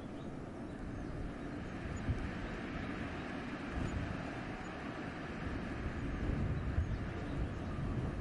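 Wind blowing through a winter forest: a steady rushing that swells in gusts in the second half, heaviest in its low rumble.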